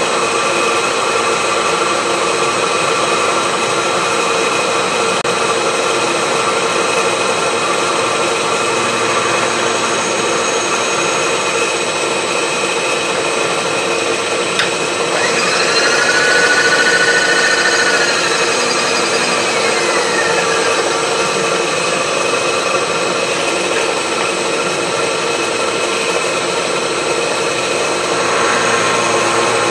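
Milling machine running with its cutter taking a pass along a wood chipper blade: a steady machine noise with constant whining tones. About halfway through, a brief whine rises and falls as the cut changes.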